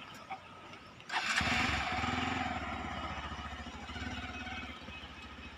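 A motorcycle engine starts about a second in and settles into a steady idle, which drops away near the end.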